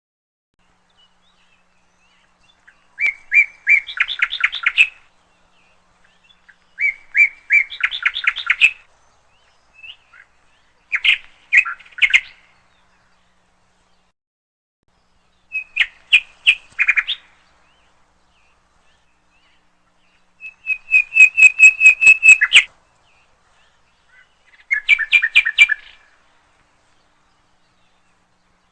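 Lutino lovebirds chirping: six short bouts of rapid, high, repeated chirps, each lasting about two seconds, with quiet pauses between them.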